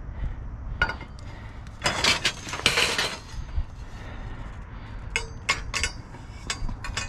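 Pieces of scrap metal clanking and clinking together in a dumpster as they are sorted, the knocks echoing. There are scattered sharp hits, a cluster of them about two to three seconds in and more near the end.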